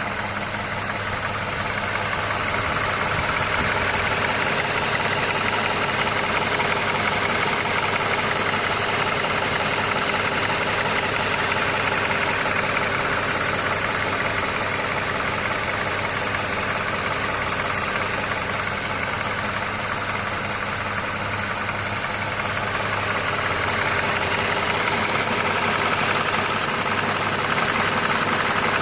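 Toyota 2GR-FE 3.5-litre V6 engine idling steadily, with an even low hum under a bright, busy top end.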